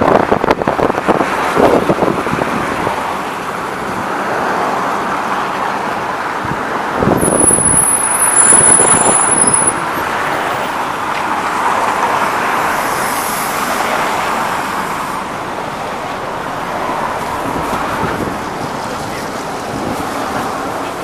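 Scania OmniLink CL94UB city bus under way, its engine and road noise heard inside the cabin. About seven seconds in, a louder stretch with a thin high whine cuts off suddenly a few seconds later.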